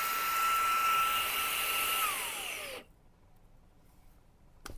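Xiaomi Redmi mini handheld vacuum cleaner's motor running with a steady high whine, then switched off about two seconds in, its pitch falling as it spins down to a stop. A single click near the end.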